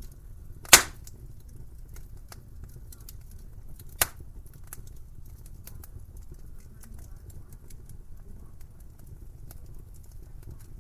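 Wood fire crackling in a fireplace: a low steady rumble with scattered small crackles, and two sharp loud pops from the burning wood, the louder one just under a second in and a smaller one about four seconds in.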